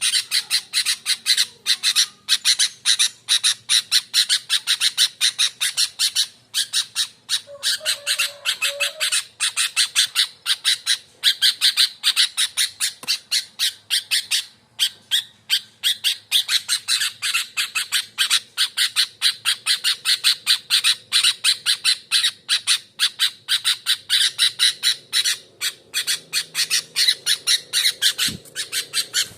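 Sooty-headed bulbul giving harsh, rapid call notes, about three or four a second, almost without pause: a lure (pikat) recording of the kind used to set caged bulbuls calling.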